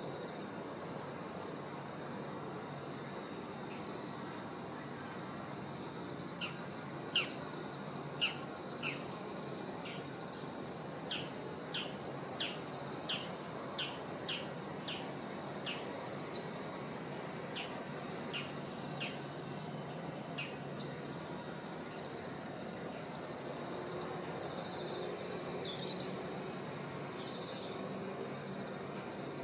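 A bird calls a run of short, falling whistled notes, roughly one or two a second, then switches to quicker, higher chirps. Behind it runs a steady high-pitched buzz and a low, even background rumble.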